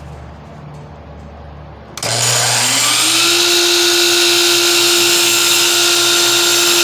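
Electric miter saw cutting crown molding: quiet for about two seconds, then the saw motor starts suddenly, winds up in pitch to full speed and runs at a steady high whine through the cut.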